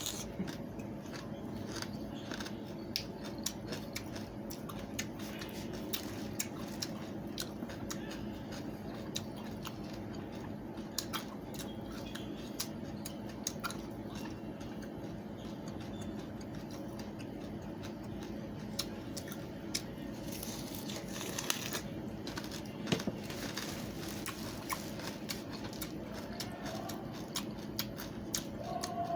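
Watermelon rind being bitten and chewed: a long run of small crisp crunching clicks, bunched more thickly about two-thirds of the way through, over a steady low hum.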